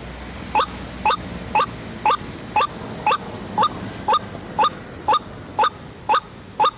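White-breasted waterhen (ruak-ruak) calling: a short, slightly rising call repeated very evenly about twice a second, starting about half a second in.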